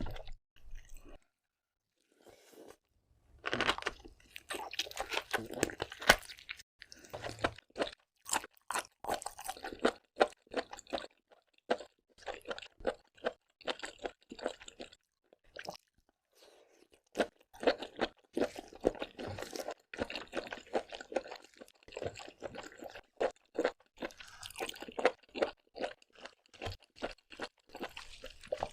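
Close-miked chewing and crunching of seafood: a quick, uneven run of wet clicks and crunches, pausing briefly near the start and again about halfway.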